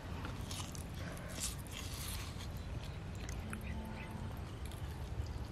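Chewing and biting into grilled rat meat, with irregular crackly bites, over a steady low background hum.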